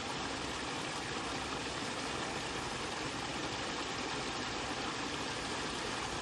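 Steady rush of flowing water, an even noise with no rhythm or change.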